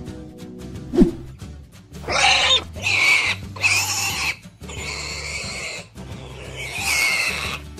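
Stock pig sound effect: about five noisy pig calls, starting about two seconds in, over steady background music. A short falling blip sounds about a second in.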